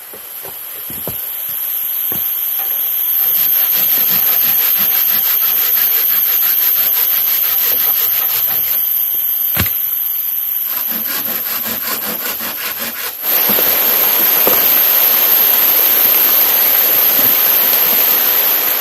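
Hand saw cutting through wood in quick, even strokes. About two-thirds of the way in it gives way abruptly to a dense, steady hiss of heavy rain.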